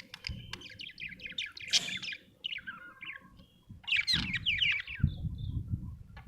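Budgerigar chirping in quick runs of short chirps, in two bouts with a brief pause between.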